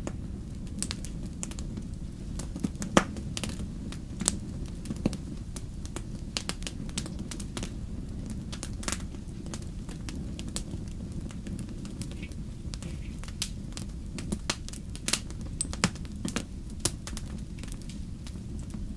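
Campfire burning, with irregular sharp crackles and pops over a steady low rumble; one pop about three seconds in is the loudest.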